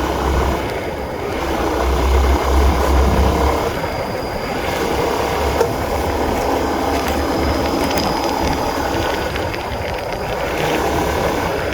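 Honda CB150R motorcycle's single-cylinder engine running steadily while being ridden, loud throughout.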